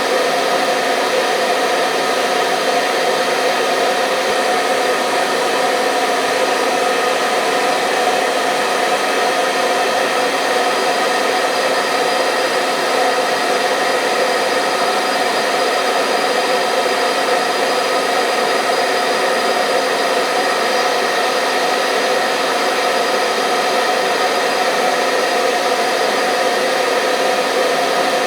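Hair dryer running steadily at one constant speed: an even rush of blowing air with a steady motor whine, unchanging throughout.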